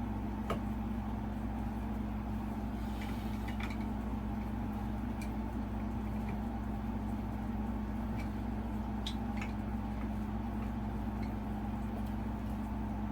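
Steady low electrical hum, with a few faint clicks and taps of fan-mounting hardware and screws being handled.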